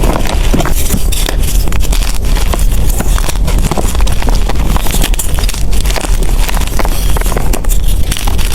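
Blocks of gym chalk crushed and crumbled by hand: a dense, continuous run of crunching, crackling snaps, over a steady low rumble.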